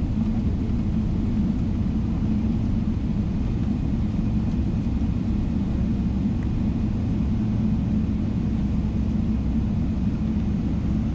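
Steady low rumble inside the passenger cabin of a Boeing 777-300ER, even in level throughout, with no change in pitch.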